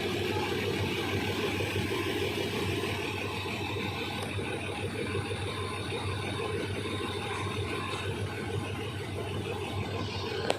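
Diesel-hauled passenger train running, a steady rumble of wheels and carriage.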